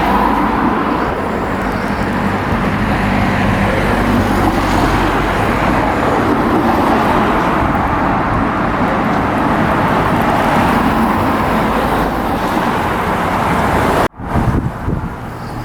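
Merseyrail electric multiple unit train running through the station: a loud, steady rushing rumble with a low motor hum, which cuts off sharply near the end.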